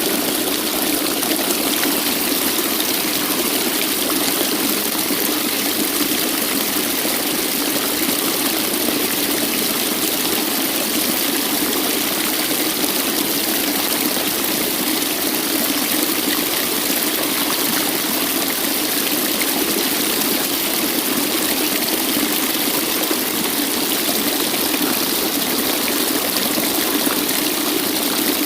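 Waterfall: water falling and splashing in a steady, unbroken rush of white noise, with no change in level.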